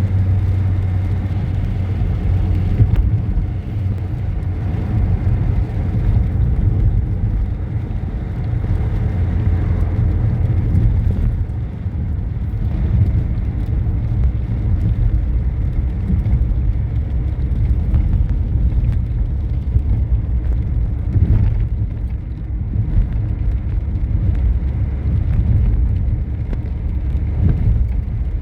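A car running steadily, with a low engine hum and road rumble as it drives.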